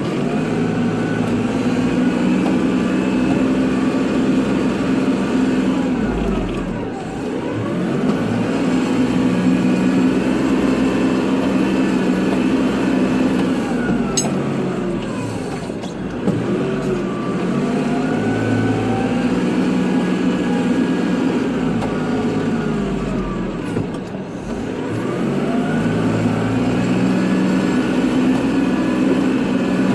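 Kubota tractor's diesel engine running under load while plowing snow, its sound dipping and recovering about every eight seconds, with a whine that falls and rises again each time. A sharp click about halfway through.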